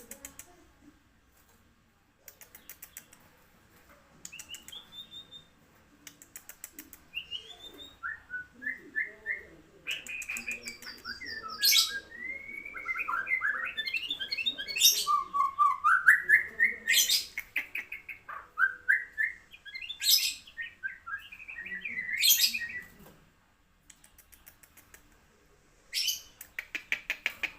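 White-rumped shama (murai batu) singing in full: a long run of varied whistled phrases with rising and falling notes, loudest through the middle, and quieter stretches of rapid ticking near the start and end.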